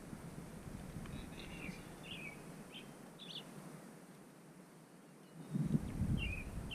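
Small birds chirping in short, separate calls, with a low rumbling noise starting about five and a half seconds in.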